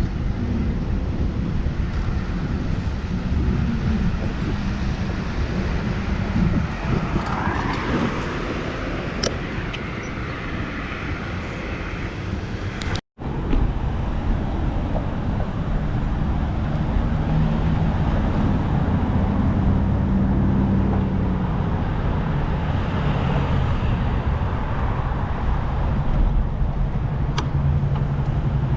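Street traffic heard from a moving bicycle: cars running past over a steady wind rumble on the microphone. The sound cuts out for a moment about halfway through.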